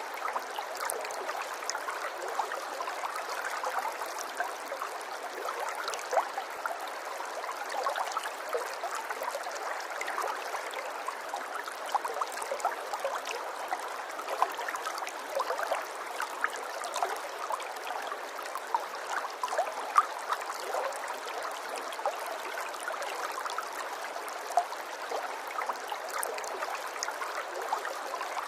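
Water running steadily, with many small quick splashes, as in a shallow stream.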